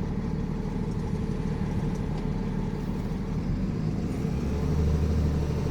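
Box truck's engine running steadily, a low rumble, with a deeper hum growing louder about four and a half seconds in.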